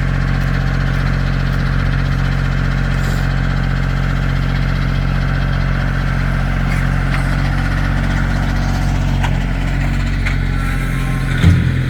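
Kioti CK2610 compact tractor's three-cylinder diesel engine running steadily, then growing louder with added clatter near the end.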